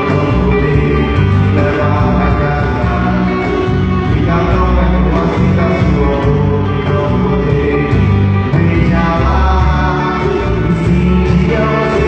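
A live band playing with singing over a strong bass line, loud and continuous.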